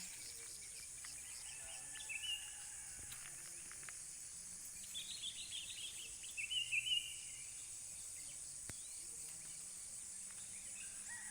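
Birds chirping in short bursts, once about two seconds in and in a busier cluster a little past the middle, over a steady high-pitched drone of insects.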